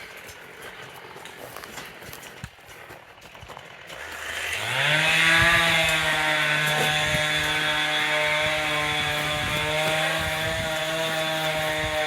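A small petrol engine comes up to speed about four seconds in, its pitch rising over a second, then runs at a steady high speed; only faint rustling before it.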